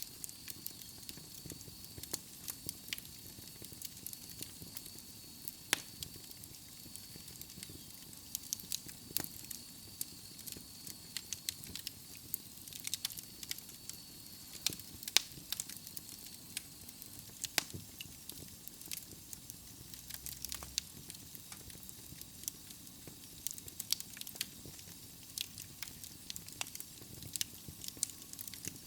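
Wood fire of burning logs in a fireplace crackling, with frequent irregular sharp pops over a soft steady hiss.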